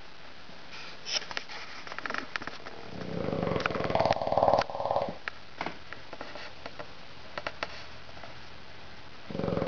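A sleeping bulldog snoring: one long buzzing snore about three seconds in and another starting near the end, with small clicks between the breaths.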